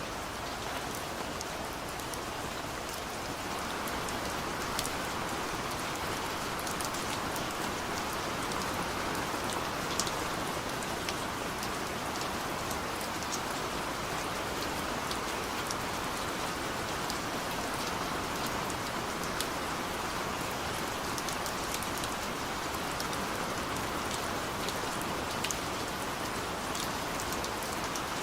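Heavy rain pouring steadily, a dense even hiss with scattered sharper ticks of individual drops.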